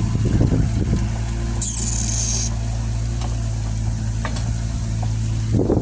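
An engine idling steadily with a low, even hum, and a short hiss about a second and a half in.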